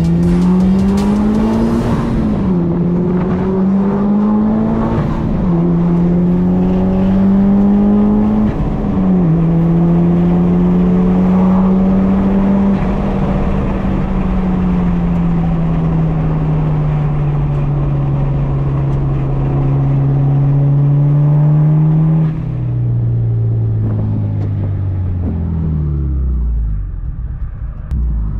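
Mitsubishi Lancer Evolution IX's turbocharged four-cylinder engine, heard inside the cabin, pulling up through the gears. The pitch rises and drops back at each upshift, three times in the first ten seconds. It then holds a steady cruise and falls away over the last few seconds as the car slows.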